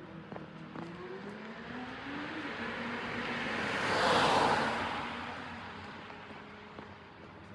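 A motor vehicle passing by on the road, its sound swelling to a peak about four seconds in and then fading away.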